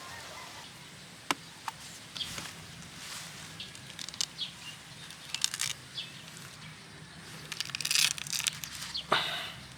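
Outdoor rural ambience of small birds chirping in short calls, over a faint steady low hum. A louder rustle comes about eight seconds in and another about nine seconds in.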